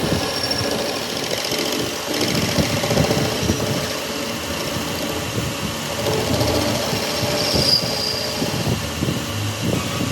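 An engine or heavy machine running, with a continuous uneven clatter.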